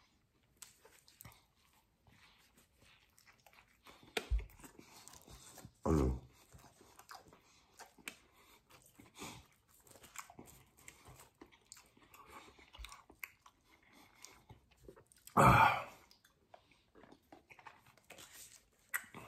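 A man chewing and biting into a breakfast burrito, with small wet mouth clicks throughout and a few louder short sounds, the loudest about fifteen seconds in. Near the end he takes a drink from a plastic shaker bottle.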